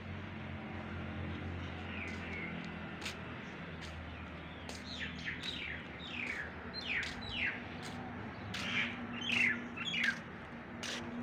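Birds chirping outdoors: a run of short calls that slide downward in pitch, coming thick and fast from about halfway through, over a faint steady low hum with scattered sharp clicks.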